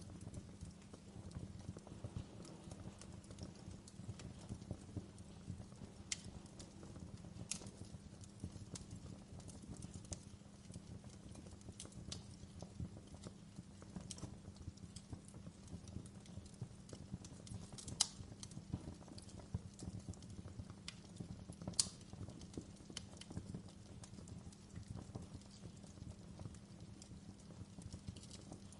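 Wood fire in a fireplace crackling: irregular small pops and clicks with a few louder snaps, over a steady low hum.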